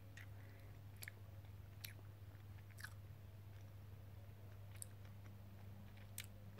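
Faint chewing of a jelly bean, with about five short, sharp mouth clicks spread through, over a low steady hum.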